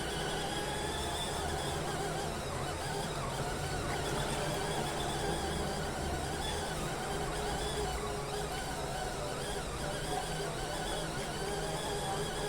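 Washing machine running, its motor giving a steady high whine over a constant churning noise.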